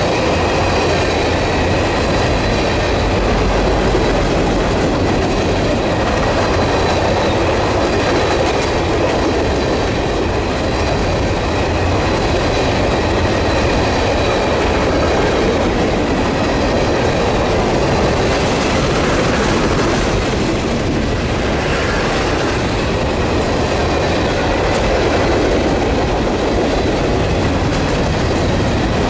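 Freight train of container-laden flat and well cars rolling steadily past at speed: continuous wheel-on-rail rumble with the clickety-clack of wheels over rail joints, and a thin high ringing squeal from the wheels at times.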